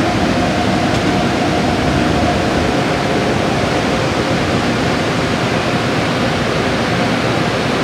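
Car wash equipment running: a steady rushing noise with a faint whine under it.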